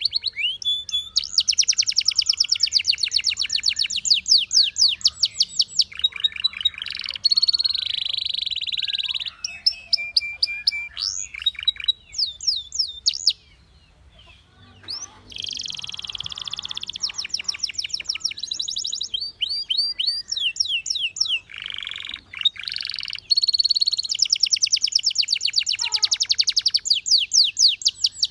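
Canary singing: phrase after phrase of fast trills of rapidly repeated high notes, with a short break about halfway through.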